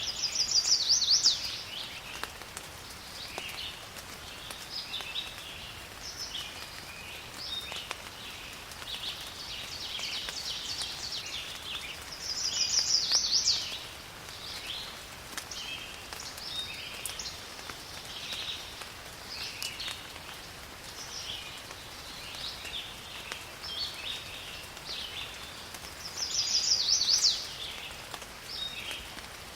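Forest ambience of many birds calling, with one loud song of rapid, closely spaced notes coming three times, about every thirteen seconds, over a faint steady hiss of rain.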